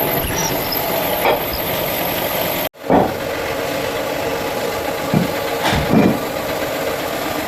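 An engine idling steadily, with a few short knocks over it. The sound drops out for an instant about a third of the way in.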